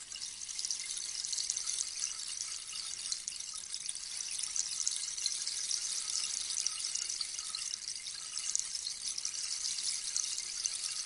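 Rainstick turned over, its pellets trickling down inside as a dense, steady patter of tiny clicks like rain. It swells up in the first moment, then runs on evenly.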